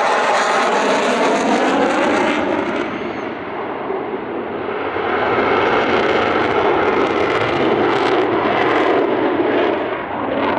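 Jet aircraft making a loud, roaring pass, with a sweeping, phasing whoosh in the first few seconds as it goes by, then a rough, crackling rumble.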